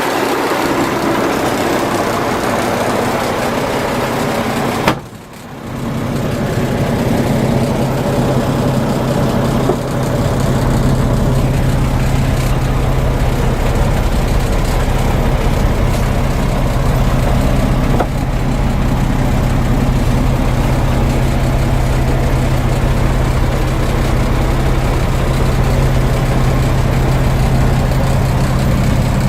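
Mack AMI-300 diesel engine of a 2003 Mack DM690S rolloff truck running. There is a sharp click and a brief drop in sound about five seconds in, then a steady low idle.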